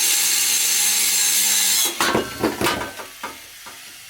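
Angle grinder cutting through a steel exhaust pipe to remove the muffler: a loud steady hiss that stops abruptly about two seconds in. Several short knocks and clunks follow as the cut muffler is worked loose.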